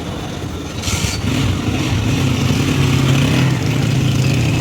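A motor vehicle engine running steadily, setting in about a second in after a short burst of noise.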